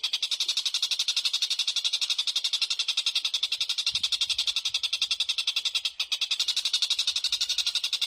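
A small songbird's rapid, even, high-pitched trill, many notes a second without a break, dipping briefly about six seconds in.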